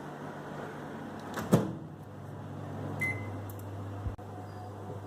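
Samsung microwave oven door shut with a sharp knock about a second and a half in, then a short keypad beep about three seconds in as the oven is restarted, followed by the oven's steady low running hum.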